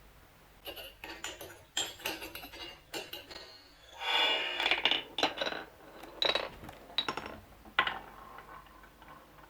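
Marbles rolling and clacking down a marble-run track: a quick series of sharp clicks, with a denser rattle of rolling about four seconds in, dying away near the end.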